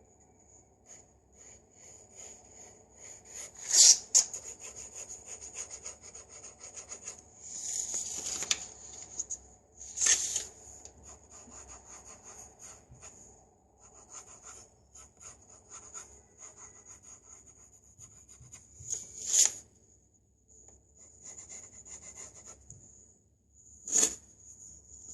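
Pencil scratching across paper in continual short strokes, with several louder, sharper scrapes.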